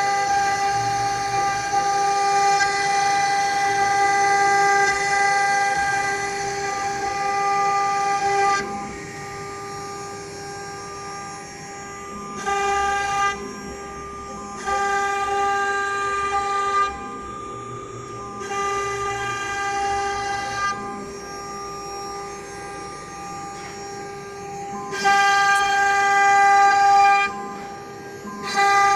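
2.2 kW spindle of a Minimo 1318G CNC router running with a steady high whine. After about eight seconds it drops lower, then swells again in several louder stretches of one to three seconds each.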